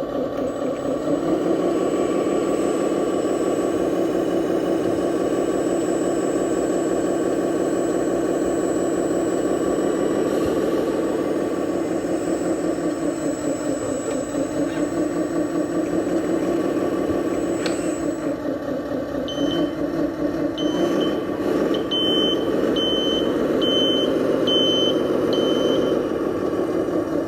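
Engine sound of a 1:14-scale RC Scania dump truck running steadily, with a pulsing diesel-like beat. A run of short high beeps comes in over the engine in the last third.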